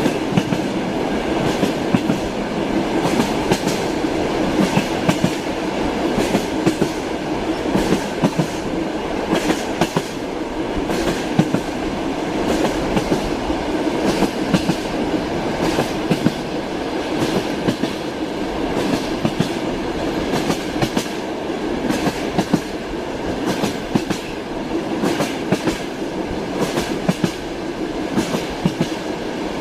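Train wheels clacking over rail joints, with repeated sharp clacks over a steady rolling rumble.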